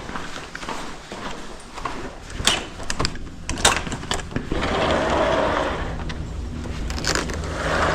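Outdoor air-conditioning unit running as a steady hum, with sharp clicks and knocks of hands and tools working at it in the first half and a hiss that swells twice in the second half.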